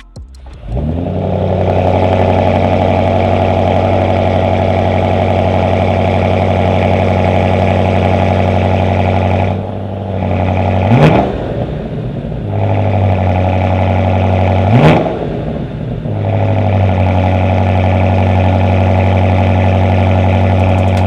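BMW G99 M5's twin-turbo V8, breathing through an iPE catback exhaust, fires up and settles into a steady idle. It is then blipped twice in quick sharp revs that fall straight back to idle.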